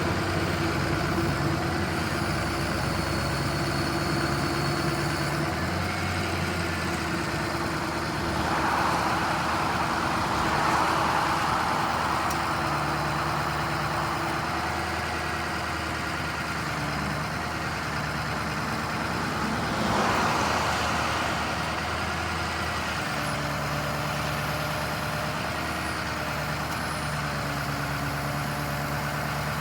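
Ford F550's 7.3-litre turbo diesel engine idling steadily, with two swells of louder rushing noise, one about eight seconds in lasting a few seconds and a shorter one about twenty seconds in.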